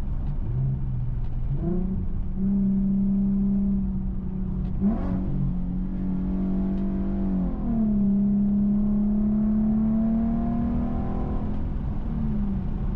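Infiniti Q50's 3.7-litre VQ37 V6 running through a custom stainless exhaust with an X-pipe and Flowmaster FX mufflers, heard from inside the car while driving. The engine note jumps up in pitch about a second and a half in and dips and recovers twice, as gears change. It then climbs slowly and falls away near the end.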